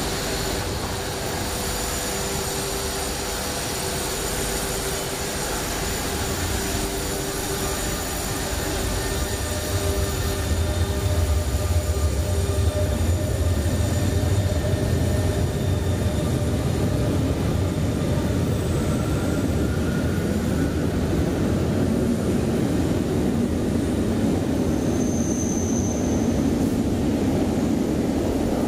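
RER A MI2N double-deck electric train standing at an underground station platform, then pulling away and accelerating out. Its equipment hums steadily at first; about a third of the way in a low rumble of wheels and motors swells as it gathers speed, with a brief high whine near the end, all echoing in the station.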